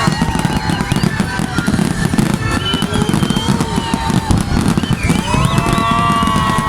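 Fireworks going off in a dense, continuous crackle of rapid bangs, with pitched whistling tones gliding up and down above it.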